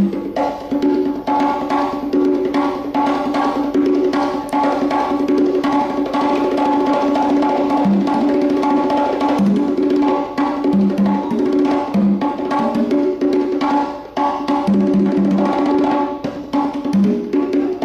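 Fast, dense percussion playing, many quick drum strokes over steady backing music.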